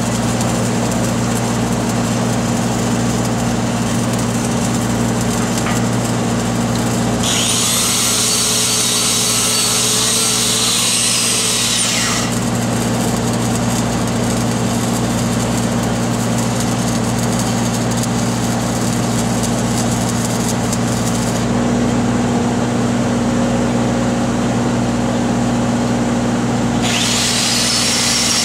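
Engine-driven welding machine running steadily, with a grinder whining over it twice: for about five seconds starting some seven seconds in, and again starting near the end.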